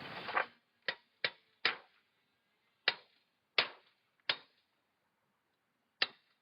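A hammer driving a wooden survey stake into the ground: about eight sharp knocks at uneven intervals, some in quick pairs and triples.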